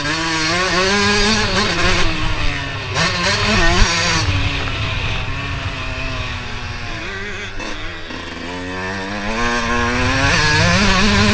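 Motocross bike engine running hard, its pitch rising and falling as the throttle is opened and closed; it drops off about seven seconds in and climbs again near the end.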